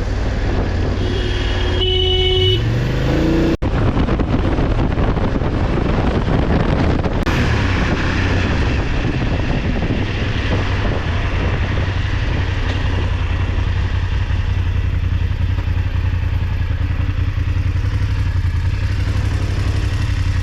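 Motorcycle riding: the engine runs steadily under wind and road noise. About two seconds in a horn sounds briefly and the engine revs up, followed by a sudden momentary break in the sound.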